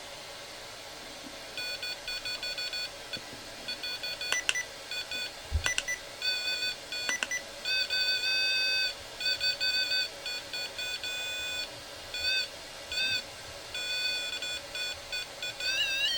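Electronic beeping from a ghost-hunting device: bursts of shrill tones of uneven length, some brief and some held about a second, starting about a second and a half in, with a warbling tone near the end. A few clicks and a low knock sound between them.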